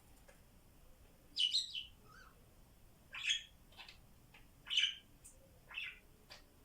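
Pet budgerigars chirping: four short, bright calls spaced a second or so apart, with a few fainter chirps between them.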